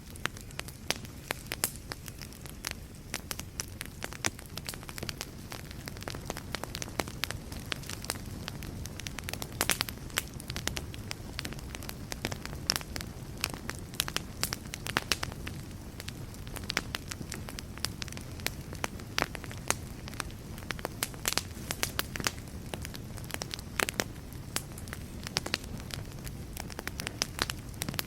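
Fireplace wood fire crackling, with frequent irregular sharp pops and snaps over a steady low rumble of burning.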